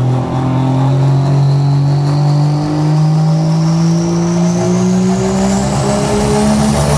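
Pulling vehicle's engine running hard under load, its pitch climbing steadily throughout.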